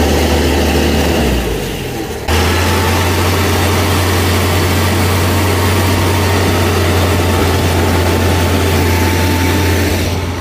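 Amphicar's rear-mounted Triumph four-cylinder engine running steadily under way on the water, with water rushing in the propeller wake. The engine note dips about a second in and comes back abruptly about two seconds in.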